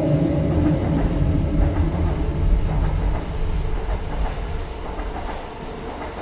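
Moving train, a steady low rumble of the carriage running on the rails, easing off somewhat in the second half.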